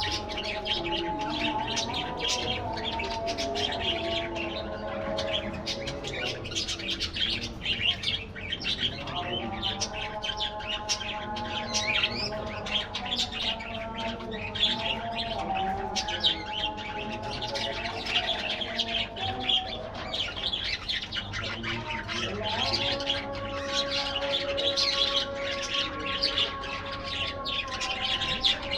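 A flock of budgerigars chattering, with a dense stream of quick high chirps and the odd squawk. Beneath the chatter run steady held tones that shift to new pitches twice.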